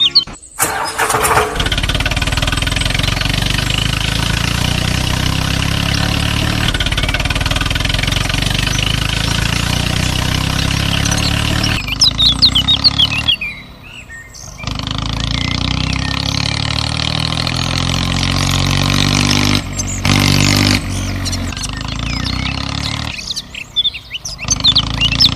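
An engine running steadily, with a few short breaks where it cuts out and comes back. Birds chirp around the breaks.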